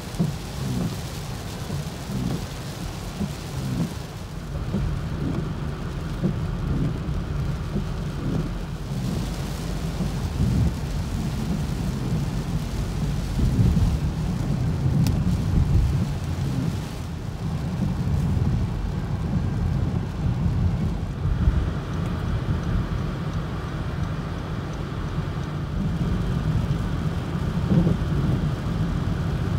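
Rainstorm: rain falling with a continuous, fluctuating low rumble.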